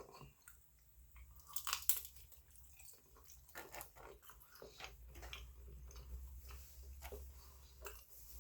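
A person biting and chewing food close to the microphone: a couple of sharper bites about two seconds in, then quiet chewing with small scattered clicks.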